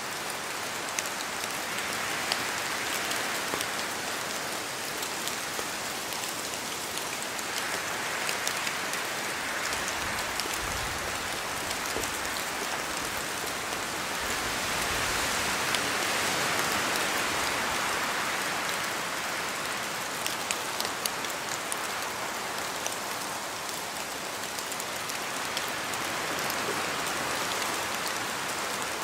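Steady rain falling through spruce trees, with many separate drops tapping. A whooshing wind swells and eases in the branches several times, strongest about halfway through.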